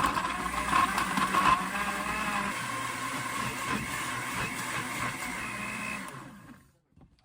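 A small kitchen appliance motor starts abruptly, runs loud and steady for about six seconds, then winds down and stops.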